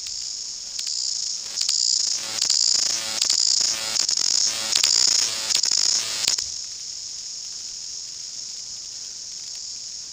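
New Zealand chorus cicadas (Amphipsalta zelandica) singing in a steady, high-pitched chorus. From about a second in, a nearer cicada's song rises over it in a run of about eight loud pulses, roughly one and a half a second, which stops abruptly about six seconds in.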